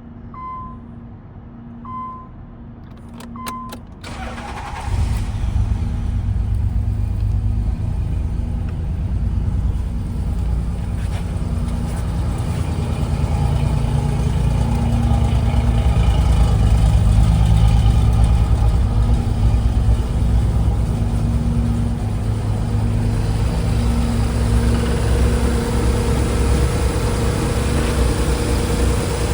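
1990 Nissan 300ZX's V6 engine being started: a few short electronic chime beeps and clicks, then the starter cranks about four seconds in and the engine catches. It then runs at a steady idle for the rest.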